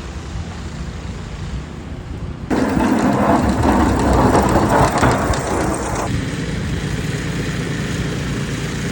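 City street noise in a snowstorm: a steady low traffic rumble with a rushing, noisy wash. It gets abruptly louder about two and a half seconds in and drops back about six seconds in.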